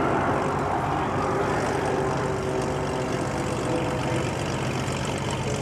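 F-117 Nighthawk's twin jet engines heard as a steady roar after a flyby, slowly fading, with a faint tone gliding down in pitch.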